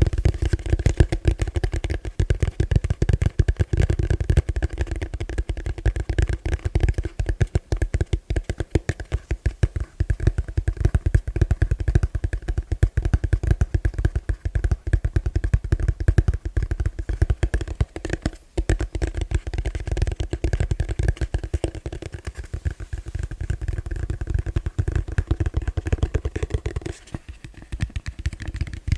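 Fast, gentle tapping on a plastic bowl: a dense, rapid patter of taps carrying the bowl's own steady ringing tone, with a brief pause about two-thirds of the way through.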